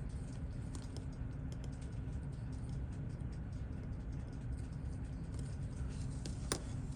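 Light, irregular clicks and taps of small watchmaker's tools on a Seiko 6139 chronograph movement being taken apart, with one louder click about six and a half seconds in, over a steady low hum.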